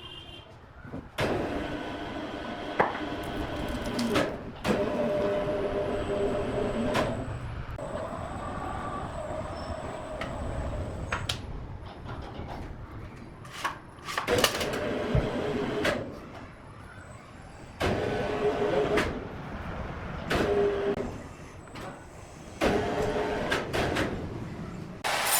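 Heavy sawmill machinery running on logs: a mechanical hum with a whine in it, which stops and starts abruptly several times.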